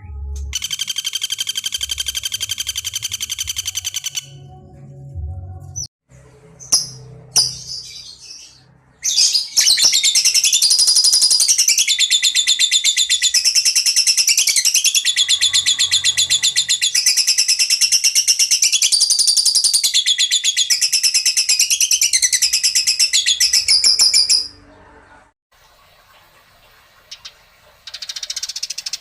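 Songbird calls: a run of fast, evenly repeated high chirps lasting about four seconds, a few scattered short calls, then from about nine seconds in a long, loud, very fast trill that keeps shifting up and down in pitch for about fifteen seconds before stopping abruptly.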